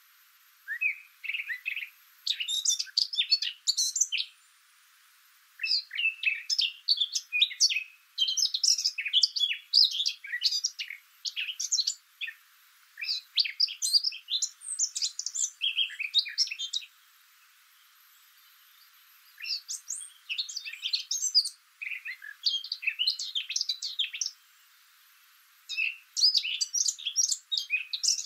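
Small birds chirping: rapid strings of high, quick notes in phrases of two to four seconds, with short pauses between them.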